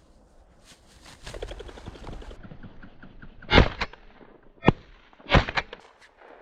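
Three shotgun shots roughly a second apart, fired at a flushed pheasant, the first a little past halfway in. They are preceded by a couple of seconds of rustling flurry as the bird flushes.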